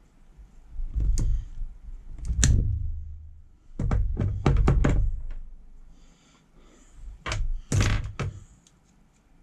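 Clicks and knocks of metal tools and planer parts being handled, in about five short clusters, as a replacement blade is worked into place on a Ryobi ONE+ cordless planer's cutter drum.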